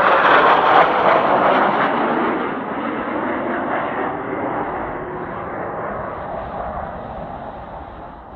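Kawasaki T-4 jet trainer flying past, its jet roar loudest in the first couple of seconds and then fading steadily as it moves away.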